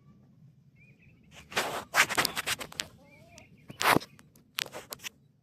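Rustling and knocking as items from the box are handled, in several short bursts, the loudest about two and four seconds in. Faint bird calls, like poultry, are heard between them.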